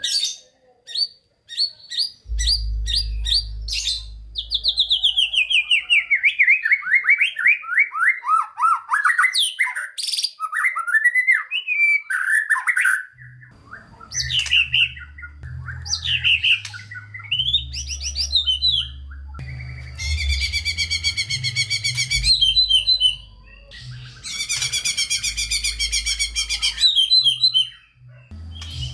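White-rumped shama (murai batu) singing a long, varied song: a quick run of repeated high whistled notes, then a long series of notes sliding down in pitch, and harsh buzzy rattling phrases in the second half. A low hum runs under much of it.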